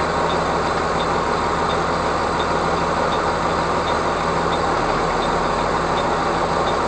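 Heavy truck's diesel engine running steadily, an even low hum, with a faint tick repeating about every 0.7 seconds.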